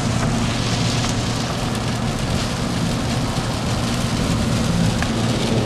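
Steady rain on a car, heard from inside the cabin, with the vehicle's low hum running underneath.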